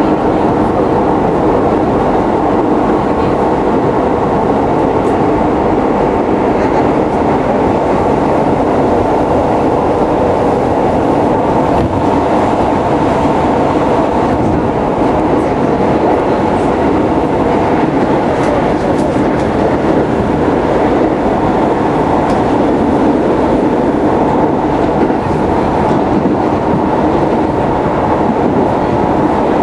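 Keisei 3700 series electric train running steadily at speed, heard from on board: a continuous rumble of wheels on rail and running gear, with a few faint clicks about halfway through.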